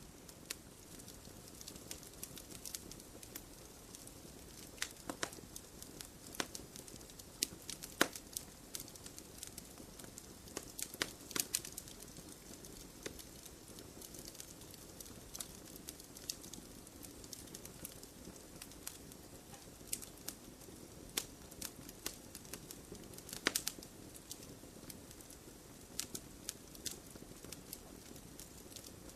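Wood campfire burning in a stone fire pit: a soft steady hiss with irregular sharp pops and crackles, a few louder snaps scattered through, among them one near the middle and a cluster a little before the end.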